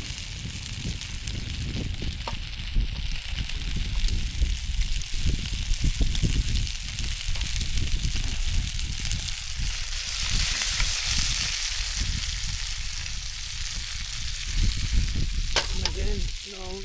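Food frying in oil in a pan on a Trangia camp stove: a steady sizzle throughout, loudest about two-thirds of the way in, over a low rumble.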